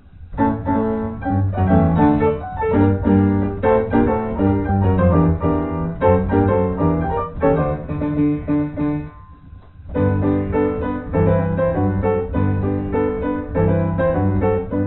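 Piano music: a stream of quick notes that breaks off briefly about nine seconds in, then starts again.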